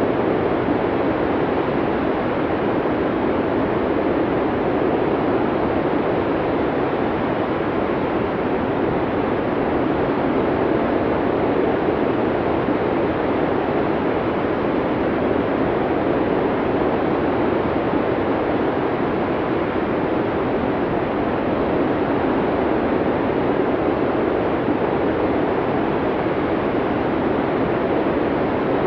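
Blizzard wind blowing steadily, a dense rushing noise with no breaks or gusting peaks.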